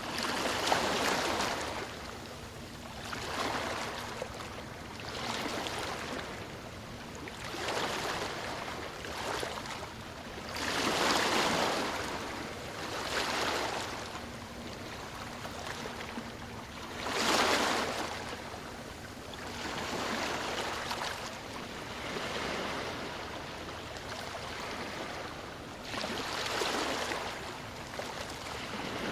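Ocean waves washing ashore, surging and falling back every two to three seconds, with two larger waves about a third and two-thirds of the way through.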